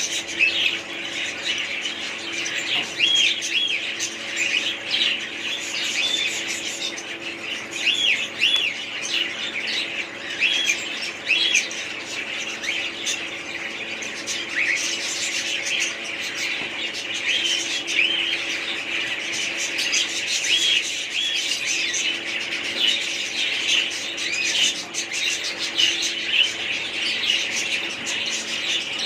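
Many birds calling at once, a continuous overlapping chatter of short chirps and squawks, over a steady low hum.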